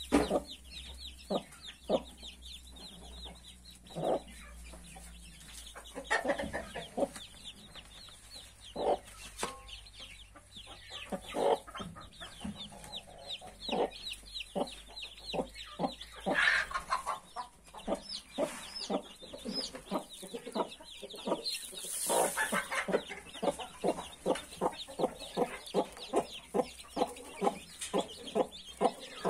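A brood of newly hatched chicks peeping constantly in many thin, falling high calls, with the mother hen clucking among them. Over the last few seconds short sharp knocks come steadily, about two a second.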